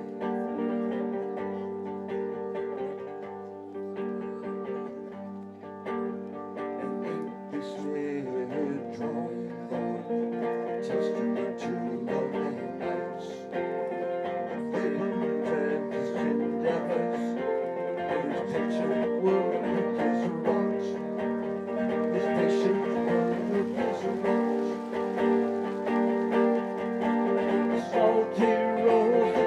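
Live acoustic band playing an instrumental passage of a song, led by picked acoustic guitar.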